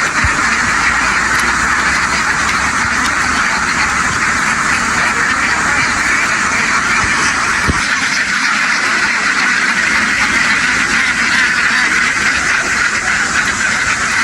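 A huge flock of domestic ducks quacking all at once, a dense, unbroken chorus of calls.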